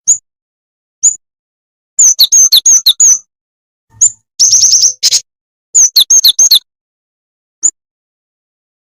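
Jing-jing tetep bird lure call: sharp, high-pitched single chirps, broken by three quick runs of rapid notes, some sliding down in pitch.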